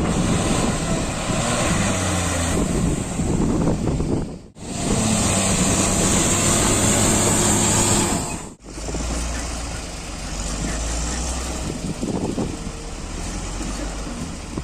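Heavy diesel engines of working machinery running. The sound breaks off abruptly about four and a half and eight and a half seconds in, where separate clips are cut together.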